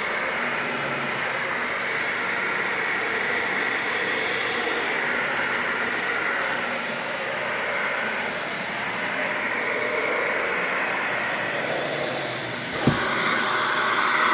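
Dyson Animal 3 vacuum cleaner running steadily with a thin high whine while vacuuming pet hair. Near the end there is a sharp click, after which the airflow hiss gets louder and brighter.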